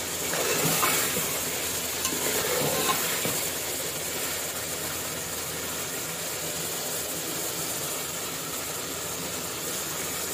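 Chicken pieces sizzling as they fry in an aluminium pot, with a metal slotted spoon scraping and stirring through them in the first few seconds, then a steady sizzle.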